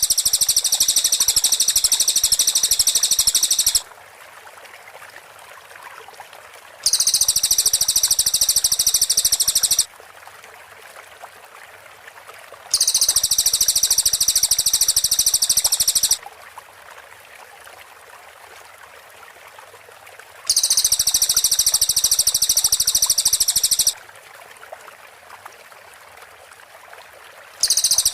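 Cililin bird singing in bursts of rapid, closely packed, very high-pitched notes, the 'tembakan rapat' song. Each burst lasts about three to four seconds and is followed by a pause of about three seconds, repeating five times, with a faint hiss in the pauses.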